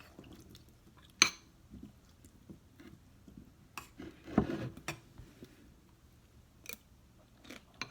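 A spoon clinking against a bowl of berries in coconut water a few times as it is scooped. There are sharp clinks about a second in and again near the middle, and a louder scrape partway through.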